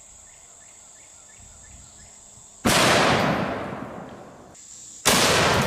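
Two shots from a double-barrel .700 Nitro Express rifle, about two and a half seconds apart, each ringing out in a long fading echo.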